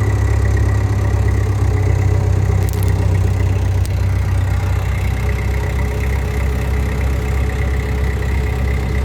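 Engine idling steadily with a deep, even rumble, with two short clicks about three and four seconds in.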